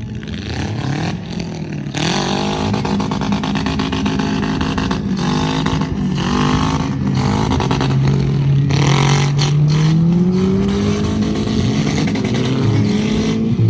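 Several derby vehicle engines revving hard at once, their pitch rising and falling, with a few sudden loud noises among them, the plainest about two seconds in and near nine seconds in.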